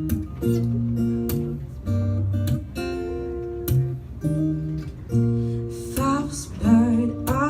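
Acoustic guitar strummed through the intro of a song, held chords changing about once a second. A woman's singing voice comes in about six seconds in.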